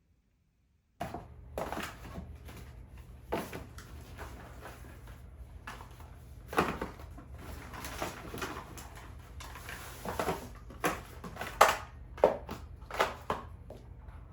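Things being handled at close range: irregular taps, clicks and rustles, with a few sharper knocks in the second half, over a low steady hum that starts about a second in.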